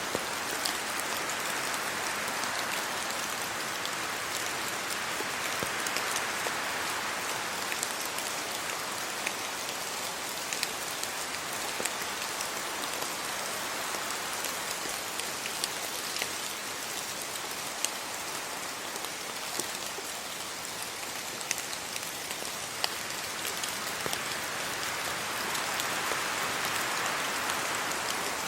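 Steady rain falling, an even hiss dotted with sharp, scattered drip ticks. The hiss swells slowly a couple of times, most noticeably near the end.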